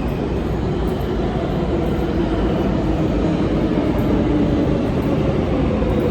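Steady rumbling run of a New York subway 7 train in motion, with a faint hum over the noise, growing a little louder.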